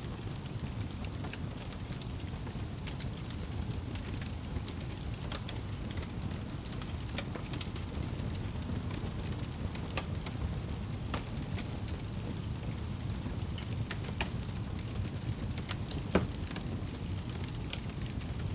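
Wood fire crackling: a steady low rumble with scattered sharp pops and snaps, one louder pop near the end.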